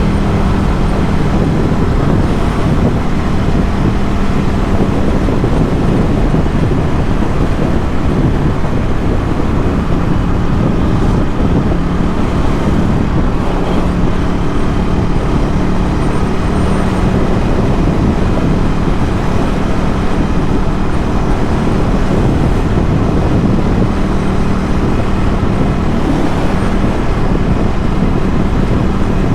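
Ducati Scrambler 1100's air-cooled L-twin engine running through a Termignoni exhaust at a steady cruise, heard over a constant rush of road and wind noise.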